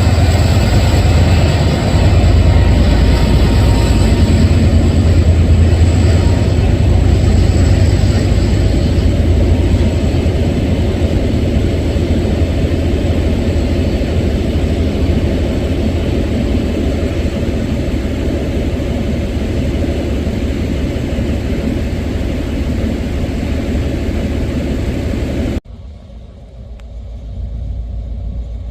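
Diesel train engine running with a loud, steady low rumble that slowly eases off. It cuts off abruptly near the end, and a quieter rumble then builds up.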